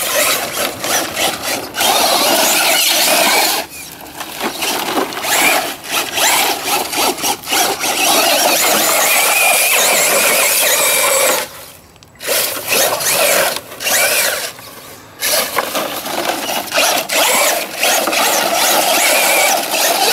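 ECX Torment electric RC short course truck driving over rock and dirt: its electric motor and drivetrain whine under throttle while the wheels spin and scrabble, in stop-start bursts with a short lull about twelve seconds in.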